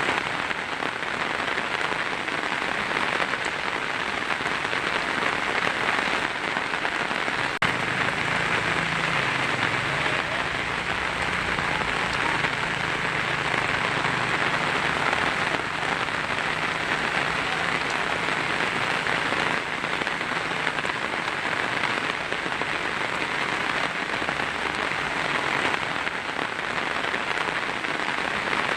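Heavy rain falling steadily on a tin roof, a dense even patter with a brief break about seven seconds in.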